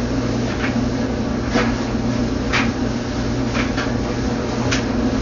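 Cloth rag wiping down washing-machine parts in short brushing strokes, roughly one a second, over a steady low hum.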